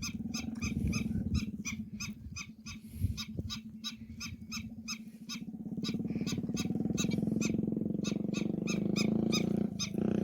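A bird calling in rapid, evenly spaced high chirps, about four a second, over a steady low hum that grows louder about halfway through.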